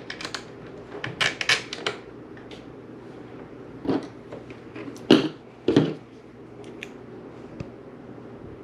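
Handling noises on a workbench: a quick run of small clicks and taps about a second in, then three separate knocks between four and six seconds, over a faint steady hum.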